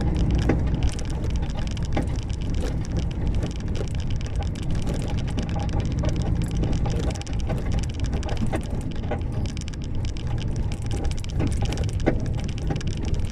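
Cab noise of a loaded truck driving over a rough, broken road: a steady low rumble with frequent knocks and rattles.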